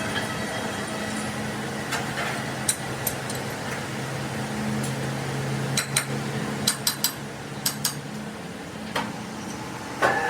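Workshop noise: a steady machine hum with scattered sharp metal clinks and taps, several in quick succession in the middle.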